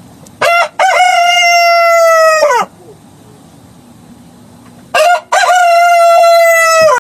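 Rooster crowing twice, a few seconds apart. Each crow is a short opening note followed by a long held note that drops away at its end.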